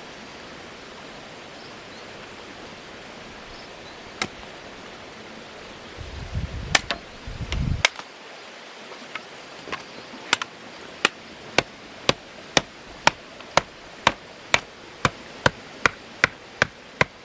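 A hand tool striking wood in a steady rhythm, about two sharp blows a second, starting about ten seconds in, as stakes are cut or driven for a tomato trellis. A steady hiss lies underneath, and there is a brief low rumble with a few knocks around six seconds in.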